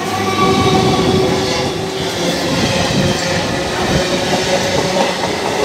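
A 12-coach EMU electric local train's coaches passing close by at speed: a loud, steady rush of wheels running on the rails, with a faint steady whine above it.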